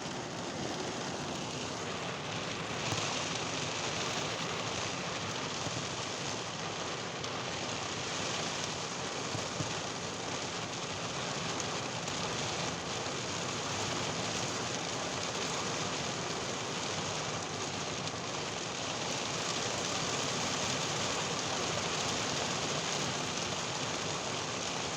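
Steady heavy rain falling during a thunderstorm, with a constant even hiss.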